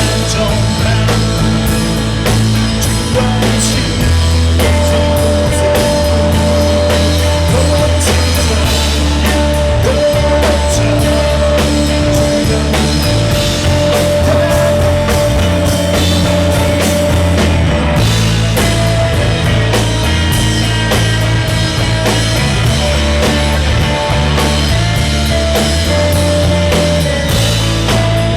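A live band playing a song, with a steady drumbeat, bass and guitar, recorded loud through a compact camera's built-in microphone.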